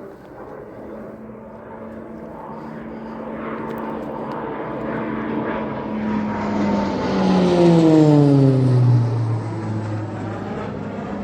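Beechcraft T-6 Texan II turboprop trainer flying past low: its propeller and engine note grows steadily louder, peaks about eight seconds in with a sharp drop in pitch as it passes, then fades away.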